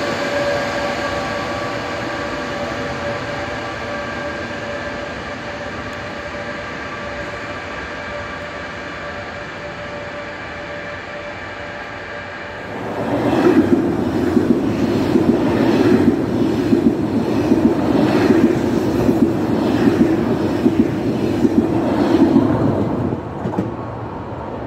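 Trenitalia E464 electric locomotive pulling away from the platform, its motor whine a set of steady tones slowly fading as it leaves. About halfway through, a much louder train passes, with rolling noise and regular clicks of wheels over rail joints for about ten seconds before it drops away.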